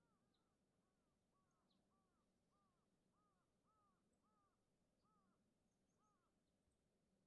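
Very faint, distant birds calling: a steady run of short arched notes, about two a second, from several birds at once, with a few thin high chirps over them.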